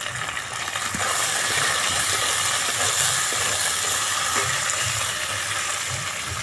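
Potatoes and green peas sizzling in hot mustard oil in a steel wok, a steady hiss that grows a little stronger about a second in. A metal spatula stirs them, with a few light scrapes and clicks against the pan.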